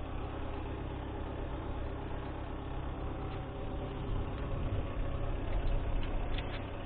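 MTZ-892 tractor's four-cylinder diesel engine running steadily, a little louder for a couple of seconds past the middle.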